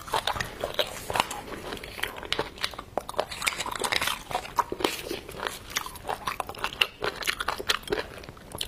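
Close-miked eating of beef bone marrow: biting and chewing mouth sounds, a rapid, irregular run of sharp smacks and clicks.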